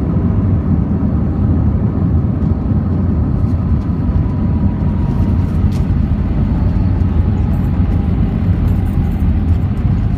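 Steady low rumble of an Airbus A319's engines and airflow, heard inside the passenger cabin.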